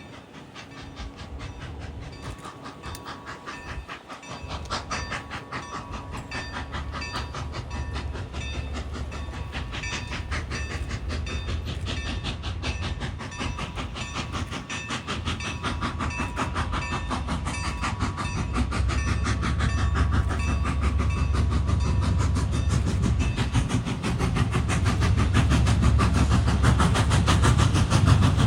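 Diesel freight train approaching, its low engine rumble growing steadily louder over a fast, even clicking.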